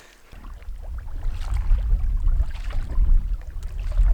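Wind buffeting the microphone: a steady, uneven low rumble that starts a moment in.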